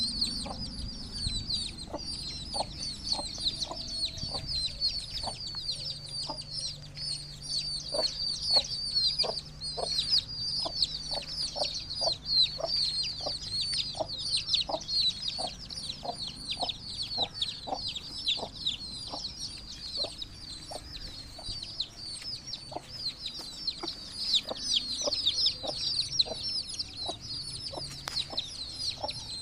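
A brood of aseel chicks peeping constantly in a dense, high-pitched chorus, while a hen clucks in short, regular clucks about twice a second.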